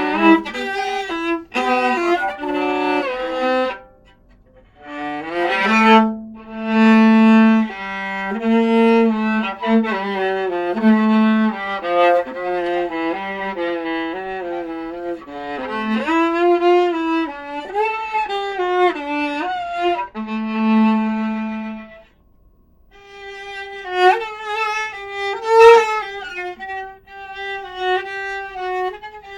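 Solo viola playing a bowed melody one note at a time, with vibrato on some held notes, pausing briefly twice.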